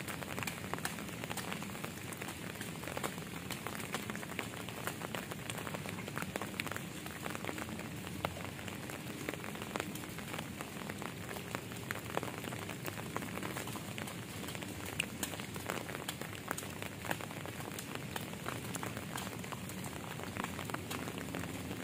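Steady rain falling, with many small drops hitting surfaces close by.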